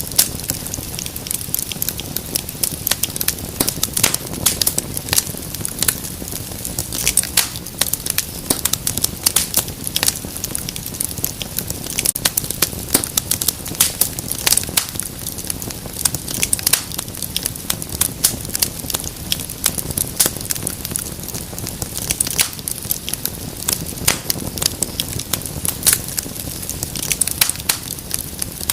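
Fireplace fire crackling: a steady stream of irregular sharp pops and snaps over a low, constant hiss.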